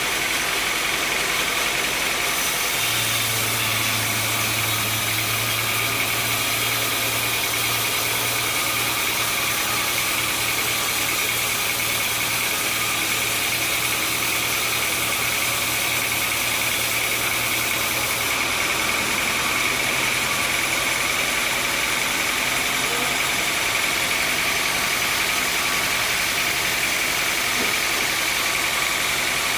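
Sawmill machinery running steadily, with a constant high-pitched whine and a low hum that comes in about three seconds in and fades out around twenty seconds in.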